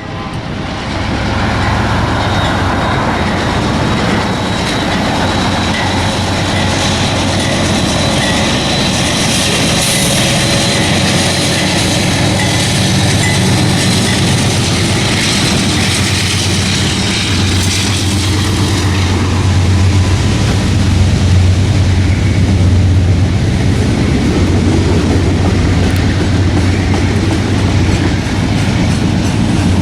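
A train rolling past, its wheels clattering over the rail joints in a steady, continuous run.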